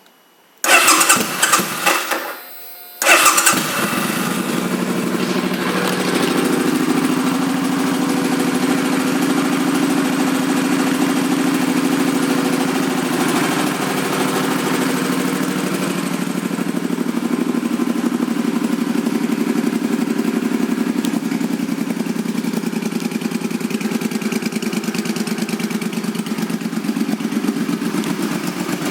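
Suzuki C50 Boulevard's 805 cc V-twin with aftermarket exhaust pipes being started: the starter cranks for about two seconds, there is a brief pause, then the engine fires about three seconds in and settles into a steady idle. The idle sits slightly higher at first and eases down a little past the middle.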